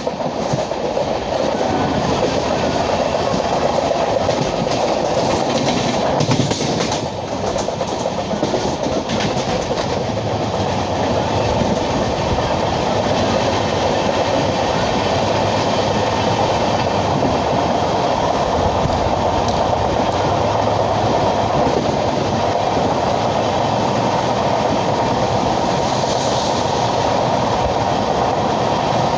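LHB passenger coaches of an express train running on the track, a steady rolling noise of wheels on rails. There is a brief dip in level about seven seconds in.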